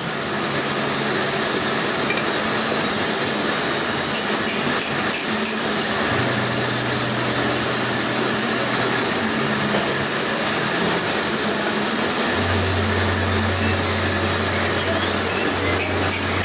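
Manual metal lathe running, its cutting tool on the welded-up bearing seat of a hydraulic pump with a steady high squeal that wavers up and down in pitch over the hiss of the cut.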